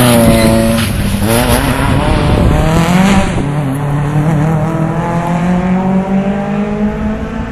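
Touring car race engines through a tight corner: the engine note dips, climbs hard from about a second in, drops sharply about three seconds in as the driver changes up a gear, then rises slowly again while fading toward the end.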